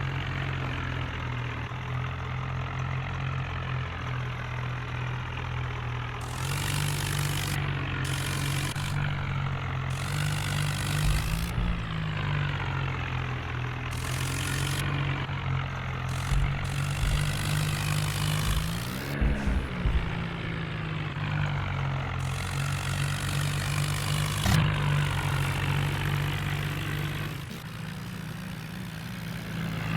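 Swaraj 963 FE tractor's diesel engine running steadily, its note rising briefly twice, with bursts of hiss coming and going over it.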